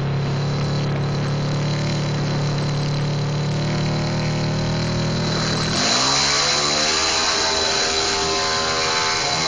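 Drag-race motorcycle engine held at steady revs, then about six seconds in the sound jumps louder and the engine revs up, its pitch climbing.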